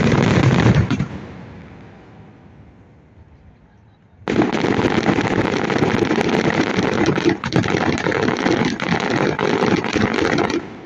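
Fireworks display: a dense run of rapid crackling bangs that dies away after about a second, then a second dense run of bangs and crackles starts abruptly about four seconds in and stops suddenly near the end.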